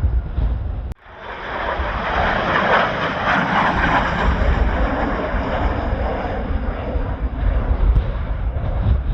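Kawasaki T-4 jet trainer passing by: jet engine noise swells, peaks after a few seconds and slowly fades. Strong wind buffets the microphone before the pass and again as it fades.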